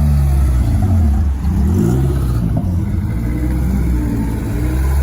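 Car engines revving, their pitch rising and falling several times, with two engine notes gliding past each other about one and a half to two seconds in.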